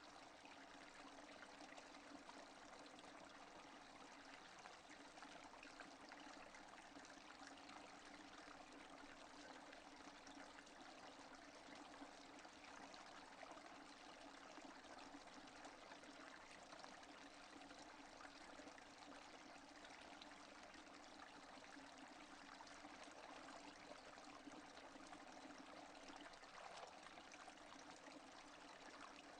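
Faint, steady rainfall, an even hiss that does not change.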